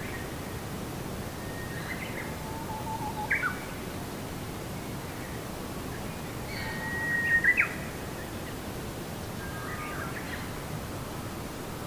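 Songbirds chirping and whistling in short scattered calls, the loudest a quick cluster of chirps about seven seconds in, over a steady background hiss of natural ambience.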